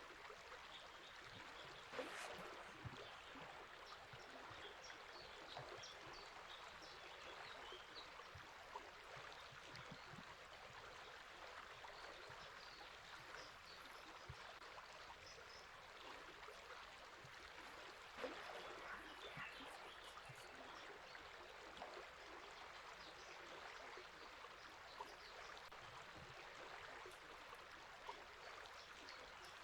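River water flowing steadily with a faint, even rushing, with scattered faint bird chirps above it and two brief louder splashes or clicks, about two seconds in and past the middle.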